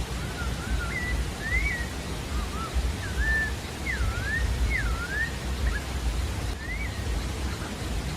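Sabiá-da-várzea singing a loose phrase of short, clear whistled notes that slide up and down in pitch, with a last note about seven seconds in. Steady rushing background noise runs underneath.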